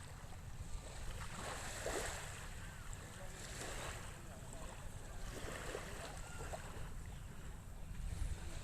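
Small waves of a calm sea washing in, one swell about every two seconds, over a steady low rumble of wind on the microphone.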